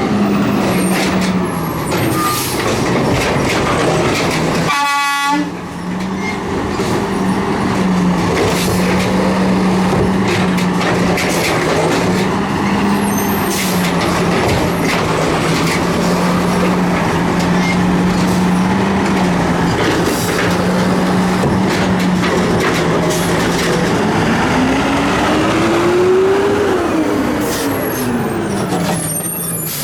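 Garbage truck engine running steadily, with scattered clanks and knocks. The engine revs up and then drops back down near the end.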